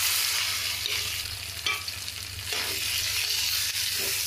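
Boiled potato pieces sizzling in hot oil in a steel kadhai, stirred with a metal spoon that scrapes against the pan a few times.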